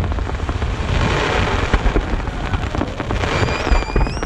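Fireworks display: a dense run of launch thumps and bursts with crackling throughout. A whistling tone comes in about three seconds in and rises slightly near the end.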